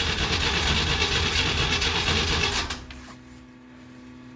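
Starter motor cranking the 1969 Jeep Willys CJ5's engine after seven months of sitting, a fast steady churning without the engine catching, cut off about three seconds in; a faint steady hum remains.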